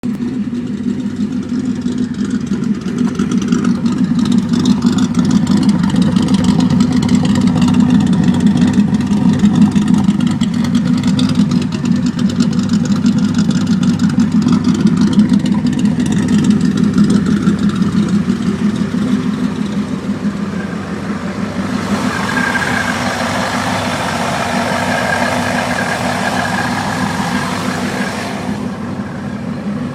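Car engine fitted with Crower cams, long-tube headers and a Magnaflow cat-back exhaust, idling steadily through the exhaust. About two-thirds of the way in a hiss with a thin high whine joins for several seconds, then stops.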